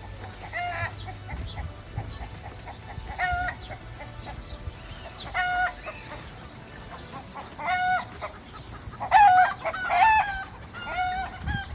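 Domestic fowl calling: short, pitched calls repeated about every two seconds, with several birds calling over one another about nine seconds in, the loudest part.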